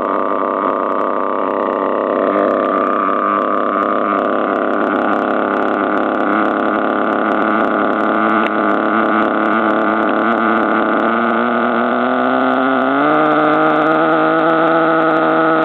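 Team Associated AE .12 two-stroke nitro engine in an NTC3 RC car, running steadily while it warms up just after a cold start. About 13 seconds in, its pitch steps up and stays higher.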